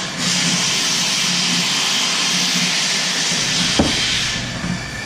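Kubota KX057-5 compact excavator's diesel engine idling with a pulsing hum under a steady hiss. A single sharp knock comes about four seconds in, and the hiss drops away briefly near the end.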